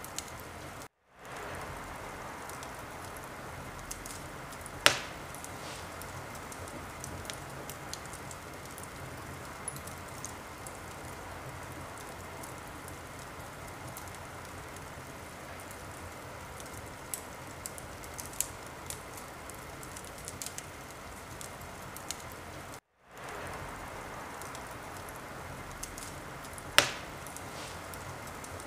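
Wood fire crackling in a fireplace: a steady hiss with scattered small crackles and two sharp pops, one about five seconds in and one near the end. The sound cuts out briefly twice, about a second in and again some twenty-three seconds in.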